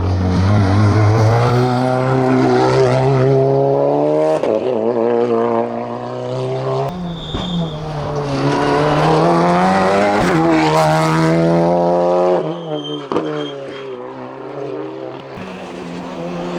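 Racing car engine at full throttle on a hillclimb, revs climbing and then dropping back at each gear change, several shifts in a row. It gets quieter for a few seconds near the end, then builds again.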